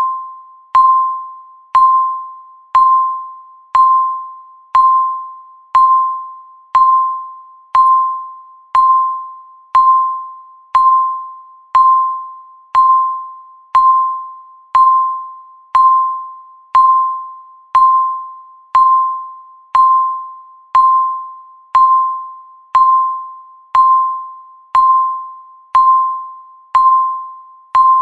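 Countdown timer's tick sound marking each second: a sharp click with a short ringing ping that fades before the next, about once a second in a steady, even rhythm.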